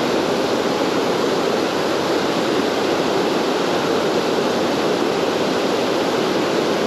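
River water rushing steadily over rocks, an even unbroken roar.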